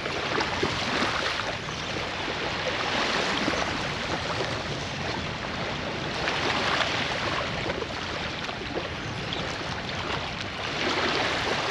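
Steady rush of wind and moving water around the fishing spot, with the tidal current running.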